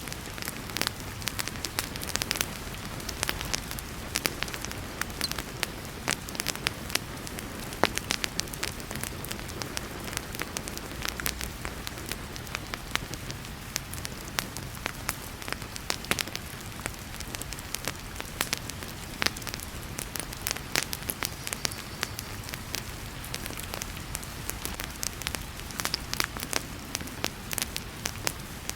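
Wood fire in a fireplace crackling, with sharp pops at irregular moments, over a steady hiss of heavy rain.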